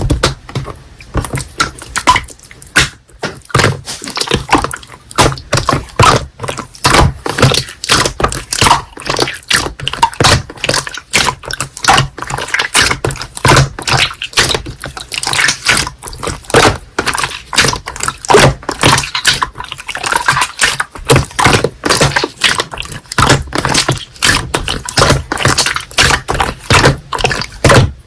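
Slime being squeezed, poked and stretched by hand, making dense, irregular wet clicks and pops.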